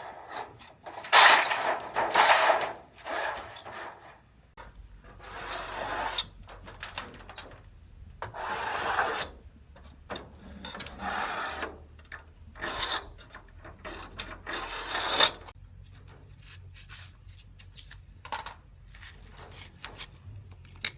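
Irregular rubbing and scraping noises in short bursts of about half a second to a second, the loudest about a second in. A faint low hum runs underneath from about four seconds in.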